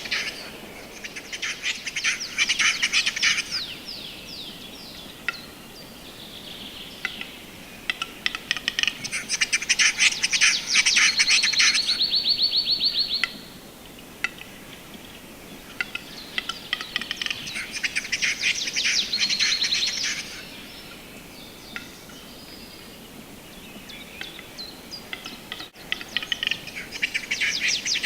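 Bird song: four bouts of a few seconds each of rapid dry clicking and trilling, two of them ending in a fast, even, high-pitched trill, with quieter pauses between.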